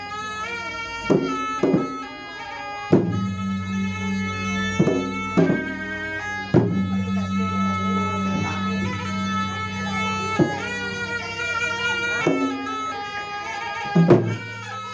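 Traditional Makassar gendang music: a reedy wind instrument plays a held, ornamented melody over a steady low drone, punctuated by sharp, irregular drum strokes.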